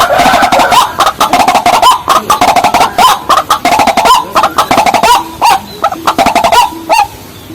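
Waterhen and watercock calls: a dense, unbroken run of rapid, repeated hooked notes mixed with sharp clicking knocks.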